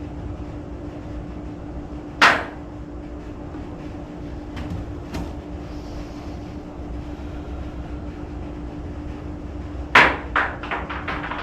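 Debris hitting the garage roof: one loud knock about two seconds in, a couple of faint ticks, then a quick clatter of knocks near the end that fades away, over a steady low hum.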